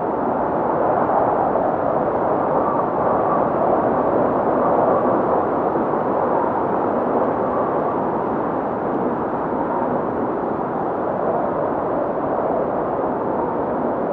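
Strong blizzard wind blowing steadily, a dense rushing noise that swells and eases slightly.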